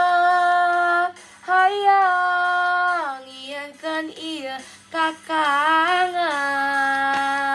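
A teenage girl singing a Sundanese pop song solo. She holds a long note that breaks off about a second in, then sings short ornamented runs that slide up and down in pitch, and settles into another long held note near the end. Her voice is hoarse from flu.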